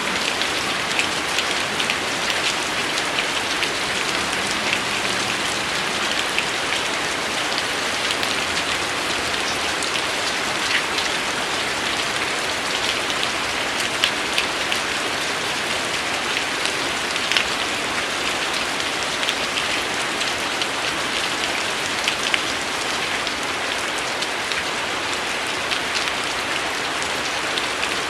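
Steady rain falling on a surface: a dense, even hiss dotted with many small sharp drop ticks.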